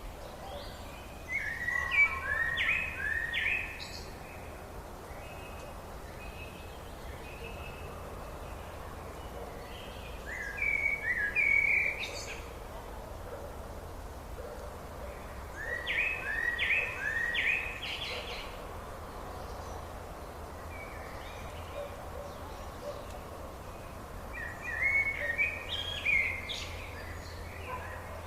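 A songbird singing four short, quick phrases of rapidly repeated notes, roughly one phrase every six to eight seconds, over a steady low background hiss.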